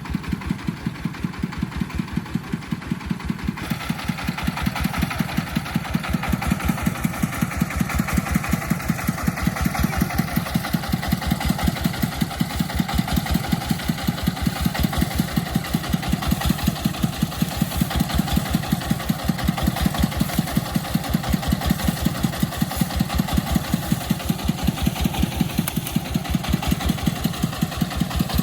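An agricultural vehicle's engine runs with an even pulsing beat of about five strokes a second. It grows louder and fuller about four seconds in and then holds steady.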